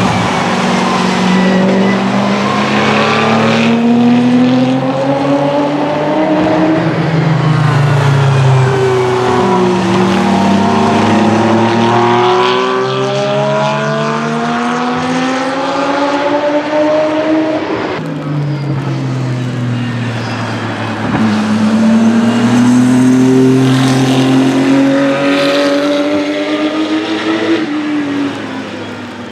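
Racing cars accelerating past one after another. Their engine notes climb through the gears and drop at each upshift, over a constant tyre noise.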